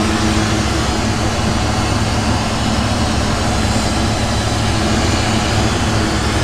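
Steady roar with a low hum underneath, the running noise of a lampworking bench: torch flame and shop exhaust fan.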